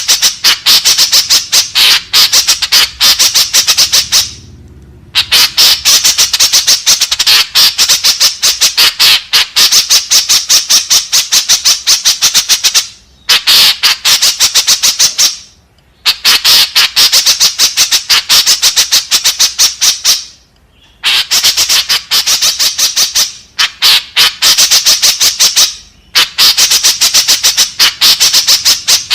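White-breasted woodswallow (kekep babi) calling: rapid harsh squawking notes, several a second, in runs of a few seconds with brief pauses between them.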